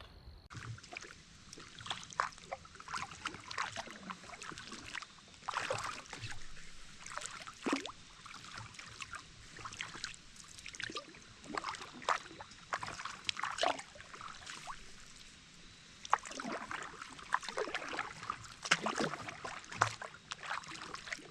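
Paddle strokes in river water: irregular splashes as the blade dips in and pulls, with water dripping and trickling off it.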